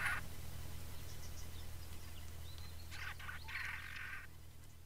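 A wild bird calls once about three seconds in, lasting about a second, after a few faint chirps. A steady low hum runs underneath.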